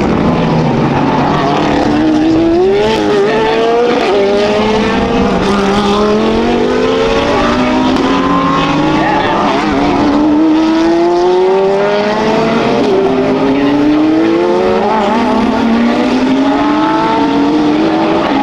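Several race cars accelerating past in turn, their engine notes overlapping. Each note climbs steadily and drops back sharply at every upshift.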